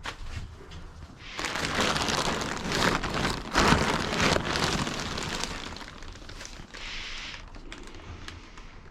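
Rustling and scraping as items are shoved and moved around in the truck's cargo box, a dense crackling clatter that starts about a second and a half in and tails off after about six seconds.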